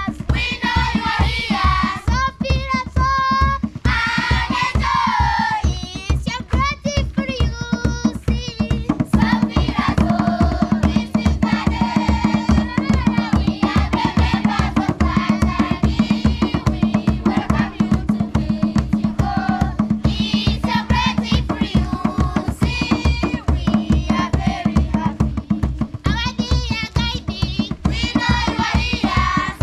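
Singing with a fast, steady drum beat underneath.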